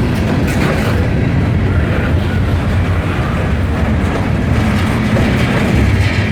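Freight train headed by EMD SD40-2 diesel-electric locomotives, running with a steady low engine drone.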